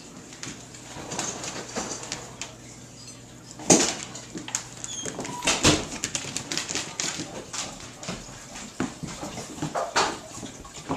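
Pet dogs moving about, with a scatter of small clicks and knocks; sharper knocks stand out about four seconds in, near the middle and near the end.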